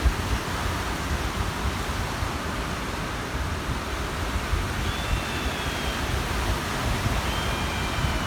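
Waves washing onto the shore with wind buffeting the microphone in an uneven low rumble. Two faint high whistling calls come about five and seven and a half seconds in.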